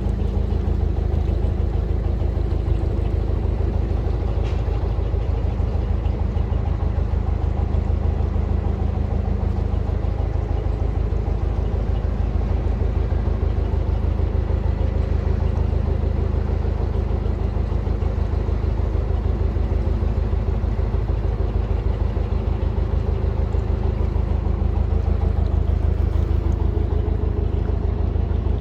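Canal boat's engine running steadily as the boat cruises, a low even chugging with no change in speed.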